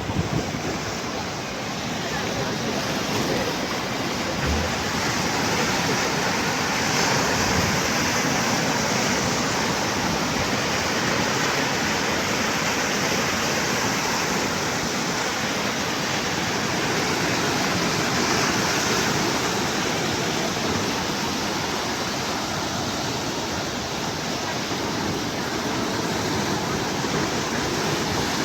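Sea surf: a steady rush of breaking waves that swells and eases gently.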